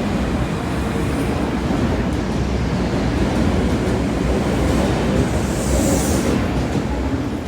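Osaka Metro train running past the platform: a loud, steady rumble of wheels and running gear, with a high hiss swelling about five to six seconds in.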